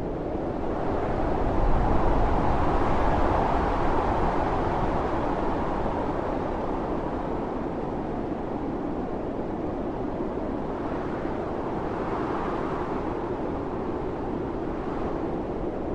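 Blizzard wind blowing hard as a steady roar, one gust swelling about two seconds in and easing off, and a smaller gust rising again later.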